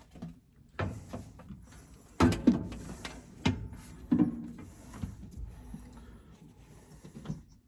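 Sheet-metal furnace access panel being handled and put back in place, giving a handful of separate knocks and clunks, the loudest a couple of seconds in.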